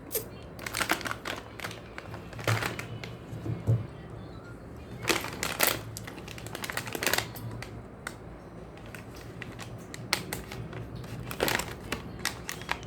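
Plastic packaging of jelly sweets crinkling and clicking in irregular bursts as it is handled.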